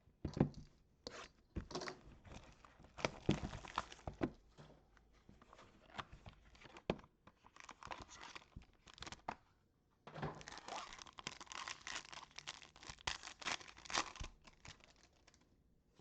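Trading card packs being torn open: wrapper tearing and crinkling with sharp clicks as the cards are handled, in two spells with a short pause between them.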